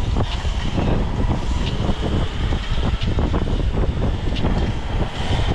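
Wind buffeting the microphone with road noise while riding an e-bike, a steady rumble broken by scattered light clicks and rattles.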